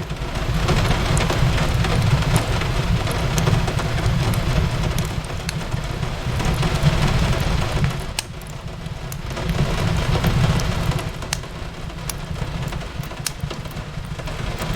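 Steady rain hiss over a low rumble, with scattered sharp crackles and pops of a burning wood fire. The rumble swells and eases twice.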